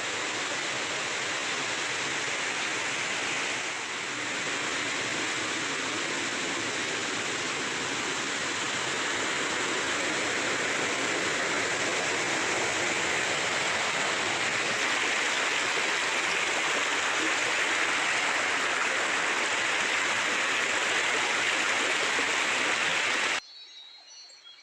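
Rushing creek water, a steady dense hiss; it cuts off suddenly near the end.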